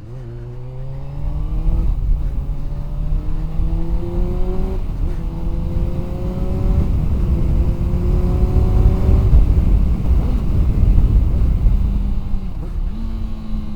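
Honda CBR 600F's inline-four engine accelerating hard and shifting up through the gears. Its pitch climbs, drops at each shift and climbs again several times, then falls back near the end. Wind noise on the microphone builds with speed.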